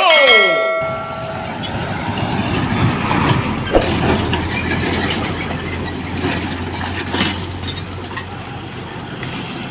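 A train running, a steady rumble with scattered clicks, opening with a brief tone that falls steeply in pitch.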